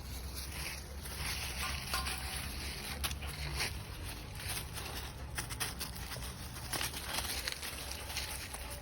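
Wind rumbling on the microphone outdoors, with scattered light ticks and crackles.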